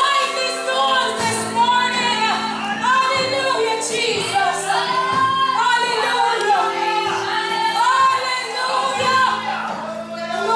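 Gospel singing, a woman's voice leading over a sustained organ or keyboard chord, in a church hall.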